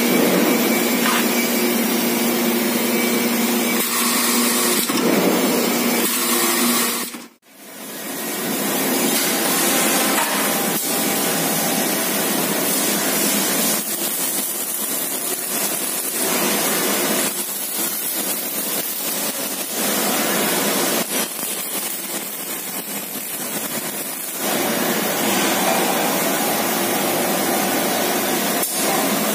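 Steady loud noise of factory machinery and power tools. It drops out briefly about seven seconds in, then runs on with its level rising and falling.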